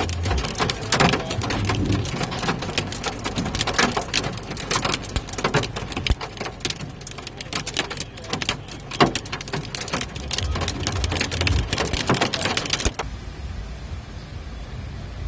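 Heavy rain pelting a car's roof and windscreen, heard from inside the car as a dense, loud patter of drops. About thirteen seconds in it cuts off sharply to a quieter, steady hiss.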